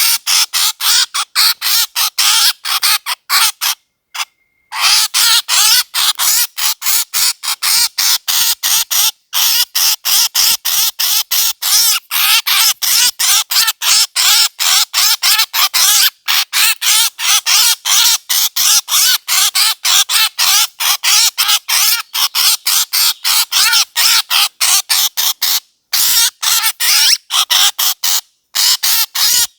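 Recorded bird calls played as a hunting lure: short, harsh, squawking calls repeated rapidly, about three or four a second, with a couple of brief pauses.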